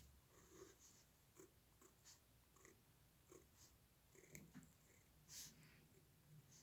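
Faint, short scratching strokes of a drawing tool on paper, coming irregularly a few times a second during hand drawing.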